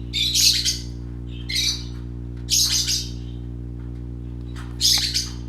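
Pet budgerigars squawking: four short, harsh high-pitched calls, about a second apart, the last one near the end, over a steady low electrical hum.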